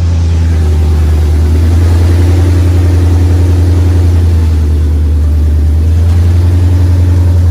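A Ford Mustang 5.0 V8 runs at a loud, steady idle through freshly fitted long-tube headers with no rest of the exhaust system, giving a deep, even tone.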